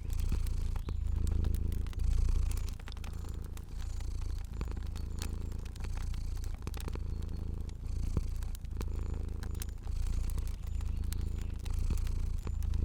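Domestic cat purring, a low rumble that swells and dips about once a second with its breathing. Sharp pops and snaps of a crackling fire are scattered over it.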